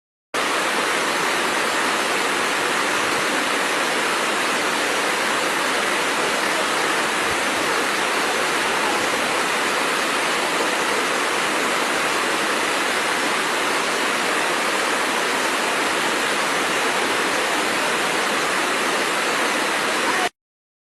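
Waterfall rushing in a steady, even roar of falling water, which starts and cuts off abruptly.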